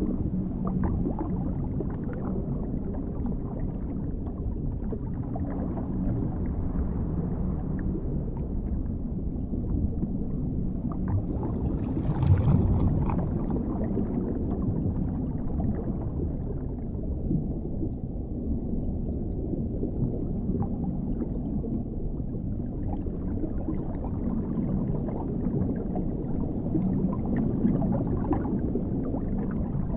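Dark underwater ambience: a steady, deep rumble heard as if from below the surface, with one brief louder swell about twelve seconds in.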